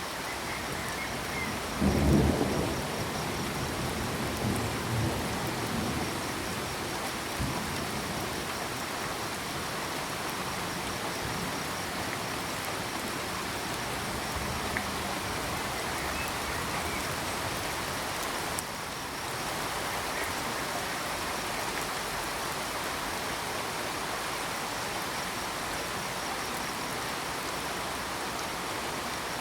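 Steady rain falling, with a clap of thunder about two seconds in that rumbles on and dies away over the next few seconds. A faint, even, high chirping of crickets runs under the rain.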